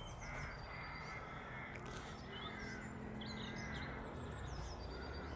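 Faint bird calls: short, high chirps and quick swooping notes repeated throughout, over a low steady background.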